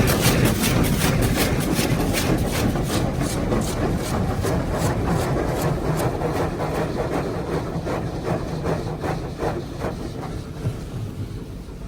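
High-pressure water jets from a touchless car wash gantry beating on the car's body, heard from inside the cabin, pulsing about three times a second and slowly fading as the spray moves away.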